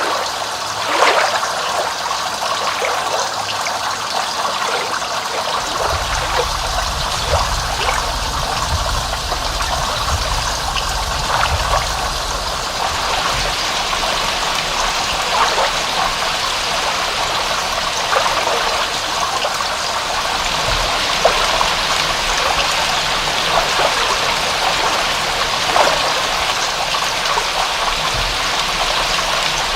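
Steady rain with water trickling and scattered drops splashing close by. A low rumble comes in about six seconds in.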